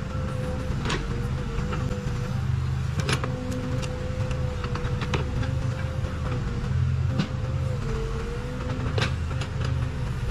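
Case 580 Super K backhoe loader's diesel engine running steadily under work, with a steady whine over its rumble that dips slightly now and then. A few sharp knocks come through, about one, three, five and nine seconds in.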